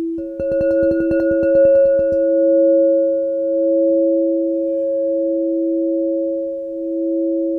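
Crystal singing bowls ringing: a low bowl holds a steady tone while a higher bowl comes in about a quarter second in, with a fast rattling for about two seconds. Both then sing on together, swelling and fading slowly.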